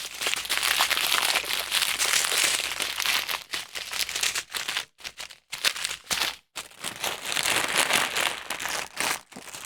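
Plastic packaging being handled and crinkled, in irregular bursts with a few brief pauses.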